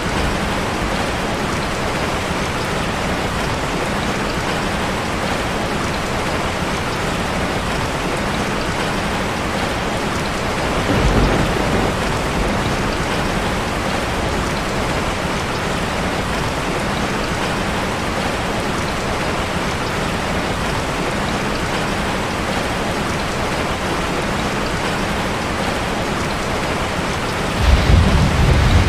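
Steady heavy rain drumming on a metal roof, with a brief low rumble of thunder about eleven seconds in and a louder rumble starting near the end.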